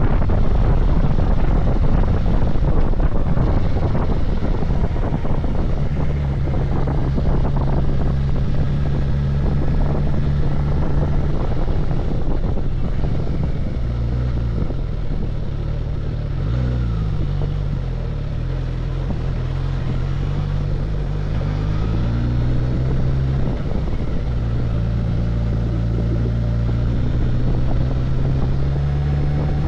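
Suzuki GSX-S1000GT's inline-four engine running on the move, with wind rush strongest in the first few seconds. The engine note holds steady, wavers and shifts in pitch about halfway through, then settles into a steady tone again.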